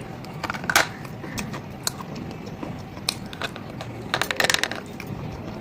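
Crunching of hard, brittle pieces being bitten and chewed: sharp cracks about a second in, scattered cracks after that, and a quick run of cracks near the end.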